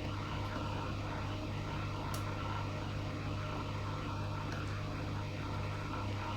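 A steady low hum, like a motor or fan running, with a faint click about two seconds in.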